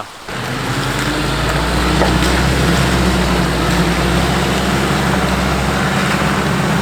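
Nissan Navara NP300 driving along a forest track, its engine holding a steady drone over continuous tyre and road noise.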